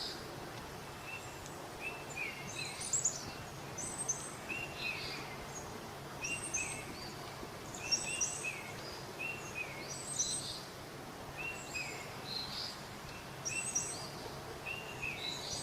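Small bird chirping over a steady background hiss, in short downward-slurred notes repeated every second or two, with higher, sharper notes in between.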